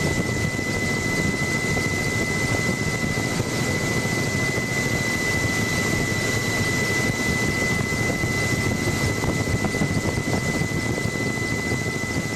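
Helicopter in flight, heard from on board: a steady, loud rotor and engine drone with a constant high-pitched whine running through it.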